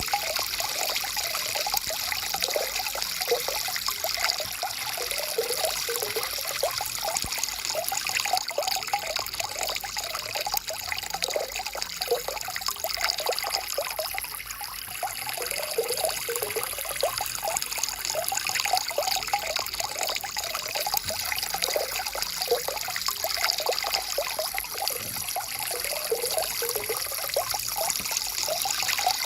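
Stream water flowing and trickling: a steady babble of many small gurgles, easing off a little about halfway through.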